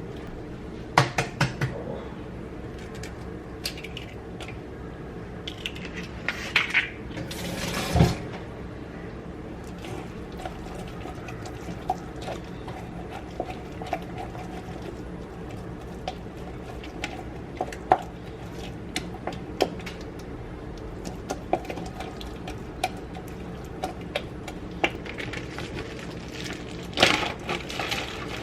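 Kitchen utensils and dishes clinking and knocking against bowls and a pan at irregular intervals, the loudest knock about 8 s in, over a steady low hum.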